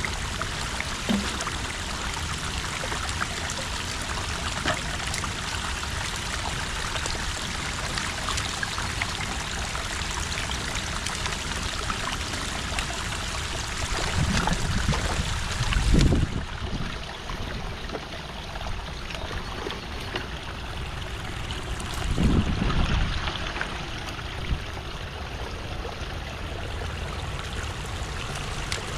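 Water running and trickling steadily through a beaver dam of sticks and mud as it is being pulled apart. Two louder, deeper swells of sound come about halfway and about three quarters through.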